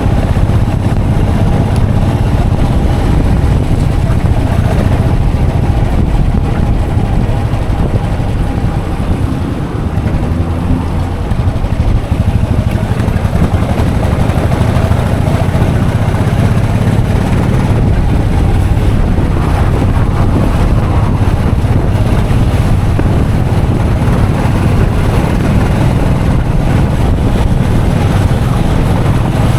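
Royal Enfield Classic 500's single-cylinder engine running steadily while the motorcycle is ridden, with wind noise on the microphone. The engine note dips briefly about ten seconds in.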